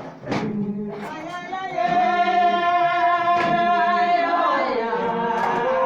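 Voices singing a hymn in long, held notes, in the style of Jamaican Revival Zion worship; the melody steps down about four and a half seconds in. A couple of sharp percussive beats cut across the singing.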